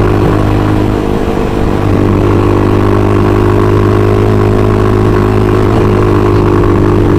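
Motorcycle engine running at a steady speed, heard from on the bike, with a constant low hum and even overtones and a slight dip in loudness about a second in.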